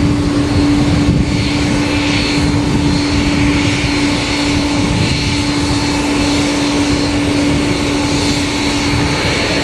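Jet airliner engines running steadily, a loud even noise with a constant hum held throughout.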